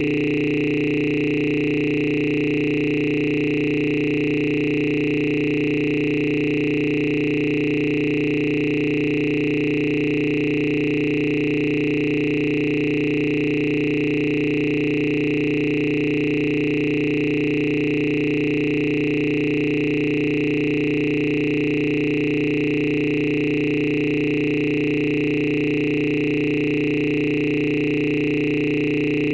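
A steady electronic drone of several held tones that does not change at all.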